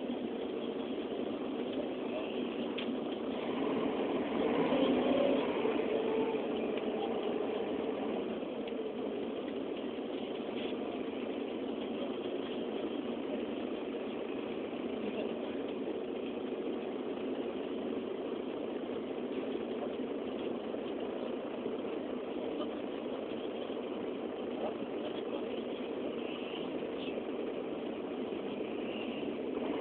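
Steady rain with the even hum of an idling vehicle engine underneath.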